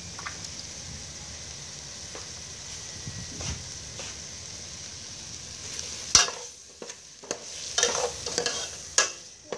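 Fish and vegetables in spice paste sizzling steadily in an aluminium pot on a portable gas stove. From about six seconds in, a metal ladle stirs and scrapes in the pot, with several loud clanks against its side.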